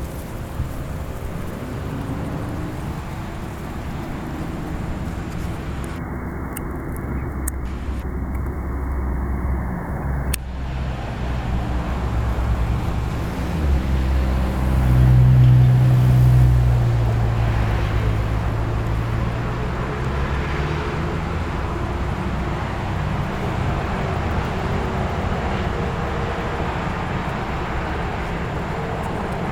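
Vehicle engine running nearby as road traffic, a low steady hum that swells to its loudest about halfway through and then eases off.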